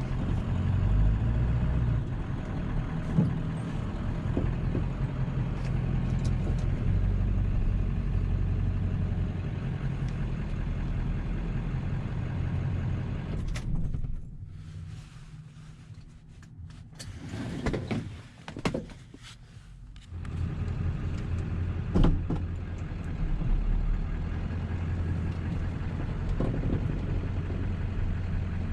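1997 7.3 L Powerstroke turbo-diesel V8 running while driving, a steady low engine and road rumble. About halfway through it goes noticeably quieter for several seconds before picking back up, and a sharp click comes a little after.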